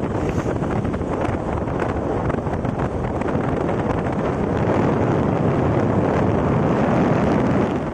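Wind rushing over the microphone of a KTM Duke motorcycle being ridden along a road, with the bike running underneath. The rush grows a little louder about halfway through.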